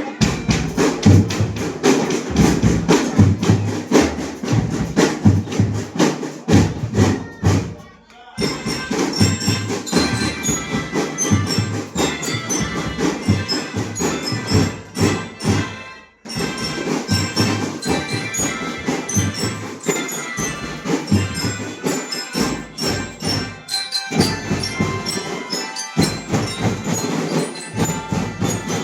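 School drum band playing: drums and cymbals keep a steady, dense beat, and high-pitched melodic instruments join in about eight seconds in. The playing breaks off briefly about eight and sixteen seconds in.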